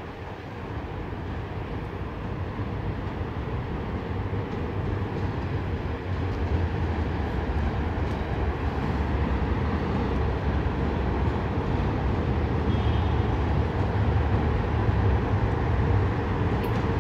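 InterRegio passenger train arriving behind a locomotive, a steady low rumble and hum that grows gradually louder as it approaches.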